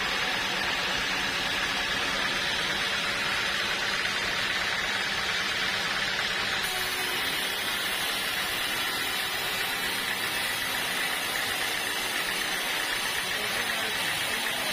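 Sawmill machinery running steadily, a continuous even noise with no breaks.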